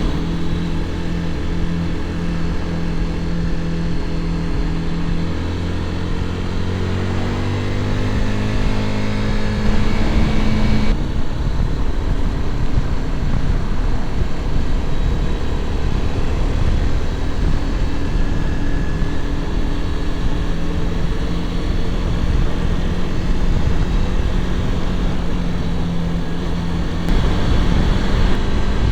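Motorcycle engine running on the move. Its note climbs for several seconds, changes abruptly about eleven seconds in, then holds fairly steady, with a further change near the end.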